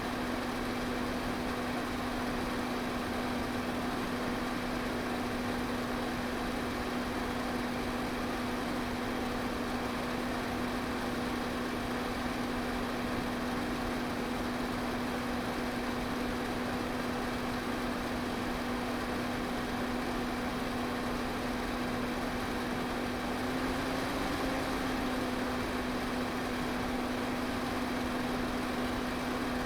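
Electric fan running steadily: an even rush of air over a constant motor hum.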